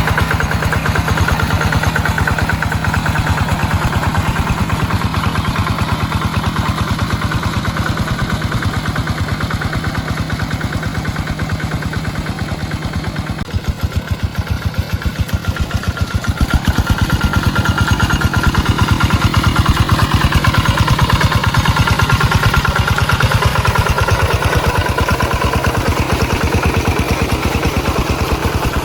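Tractor engine running under load in a wet paddy field, with a rapid, even firing beat. It eases off about halfway through, then grows louder again a few seconds later.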